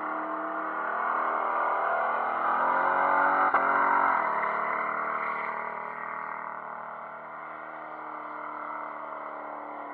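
Holden VT Commodore engine held at high revs in a burnout, tyres spinning and smoking. It grows louder as the car passes about four seconds in, then drops in pitch and fades as it moves away.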